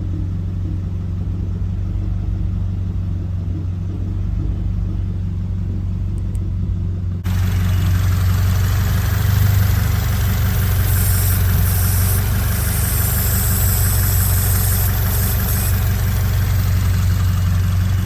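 Subaru WRX (VB) 2.4-litre turbocharged flat-four engine idling steadily. About seven seconds in, the sound suddenly gets louder and a rushing hiss joins the low idle drone.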